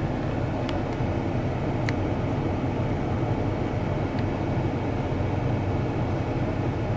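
Steady low rumble and hiss heard from inside a truck cab waiting at a car wash entrance, with a few faint ticks about a second in and again near the middle: the idling truck together with the attendant's pre-wash hose spray.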